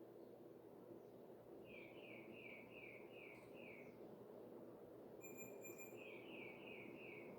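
Primavera Pop ceiling fan running with a faint steady hum. Over it a bird gives two quick runs of about five descending chirps each, the second run near the end, with a brief high whistle just before it.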